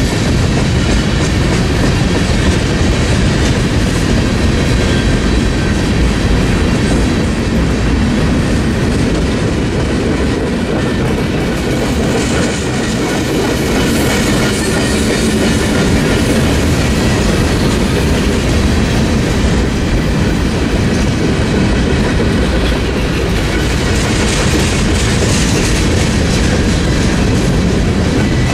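Freight train cars rolling past on the track: a loud, steady rumble of steel wheels on rail that holds all the way through.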